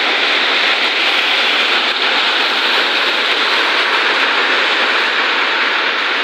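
Heavy rain pouring down in a strong wind: a steady, loud hiss that doesn't let up.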